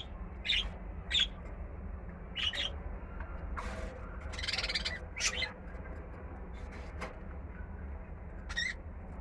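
Pet cockatiels and budgerigars in their cages giving short, high chirping calls every second or two, with a rustling stretch in the middle and a steady low hum underneath.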